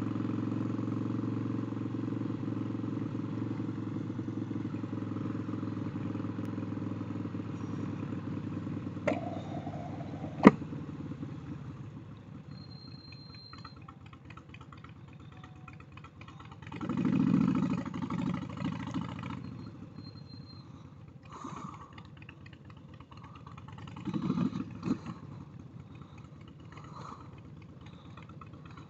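Motorcycle engine running steadily at low speed, fading to a quieter background after about twelve seconds, with a sharp click near ten seconds. Later, two louder swells of engine noise rise and fall, the first the loudest.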